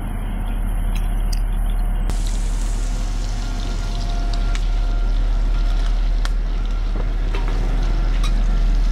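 Chicken pieces frying in a wok on a portable butane gas stove: a steady sizzle over a low rumble, with a few light clicks.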